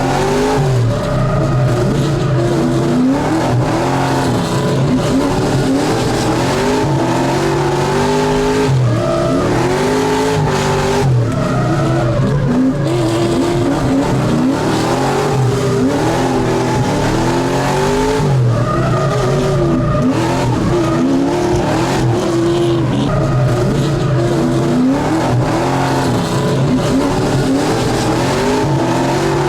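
A drift car's engine revving hard, its pitch climbing and dropping again every second or so as the throttle is worked, with tyres squealing and sliding.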